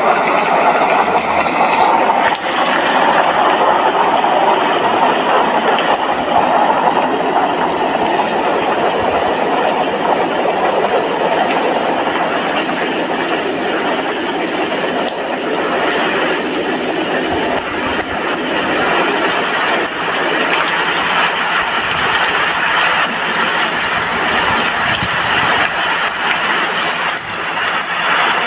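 Steady, heavy rain falling, an even hiss that keeps the same level throughout.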